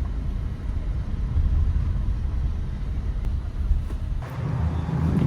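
A steady low rumble that grows a little louder about four seconds in.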